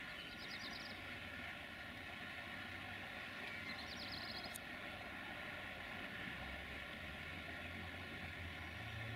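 Distant diesel-hauled freight train: a steady low engine hum that grows a little stronger after about six seconds, over a faint continuous rushing noise. Two short high trills cut in, one near the start and one about four seconds in.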